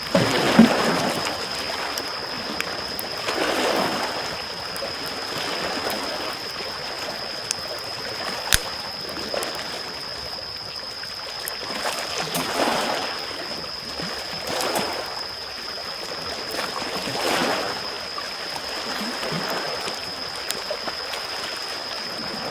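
Small waves washing in on the shore in soft surges every few seconds, with a campfire crackling and giving an occasional sharp pop. A steady high-pitched tone runs underneath.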